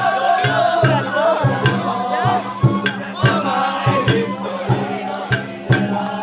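Sawara-bayashi festival music accompanying a hauled float: taiko drums beating a steady rhythm, roughly two strokes a second, under a wavering melody line.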